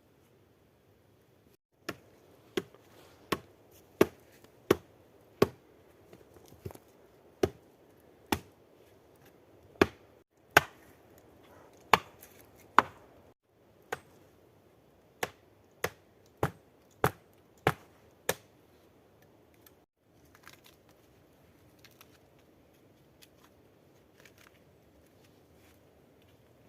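A blade chopping: about twenty sharp blows at a steady pace of roughly one every two-thirds of a second. The blows stop about two-thirds of the way in, leaving only faint small sounds.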